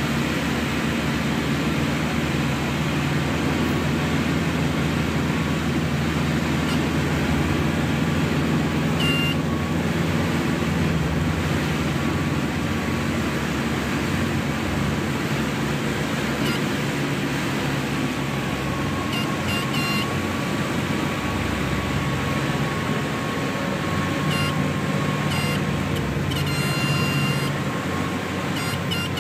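Light twin-engine airplane's engines running steadily with a constant drone, with short high beeps a few times in the second half.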